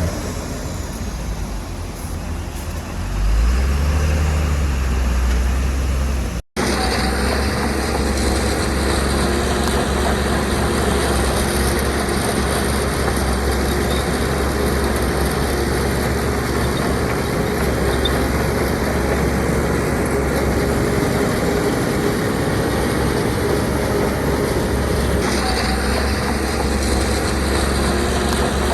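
Heavy diesel engine of earth-moving machinery running steadily, rising in pitch and loudness about three seconds in. The sound cuts out sharply for an instant about six seconds in.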